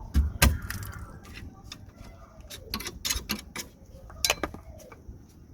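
Scattered sharp metallic clicks and light clinks of hand tools and loose handbrake cable brackets being handled, the loudest knocks about half a second in.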